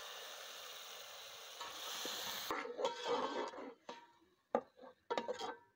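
Tomato puree sizzling in hot ghee and fried onions in a metal pot, a steady hiss that cuts off about two and a half seconds in. Then a steel ladle stirring and scraping in the pot, in short irregular strokes with a couple of clicks.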